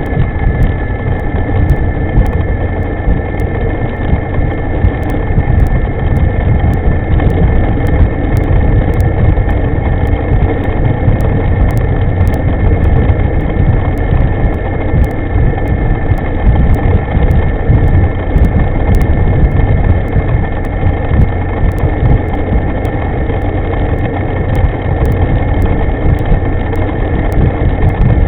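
Riding noise from a moving electric scooter: loud wind rumble buffeting the microphone, with a steady high whine over it.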